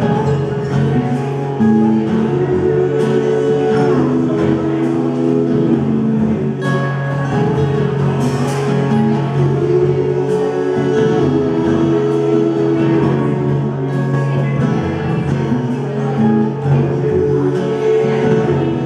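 Live band music: acoustic guitar and other instruments with singing, over a steady low held note.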